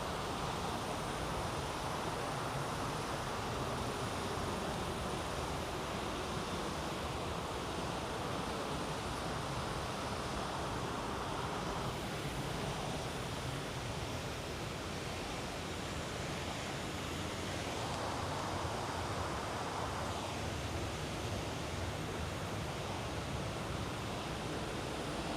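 River water rushing steadily, an even wash of noise that thins a little partway through and then swells back.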